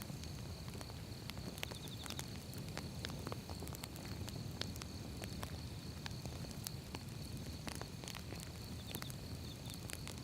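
Wood fire burning: irregular sharp pops and crackles of burning firewood over a low, steady rumble of the flames.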